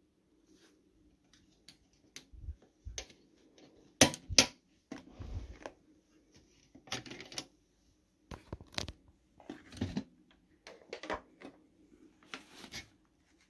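Scattered clicks, knocks and short rustles of things being handled, with two sharp clicks about four seconds in. No vacuum motor is running.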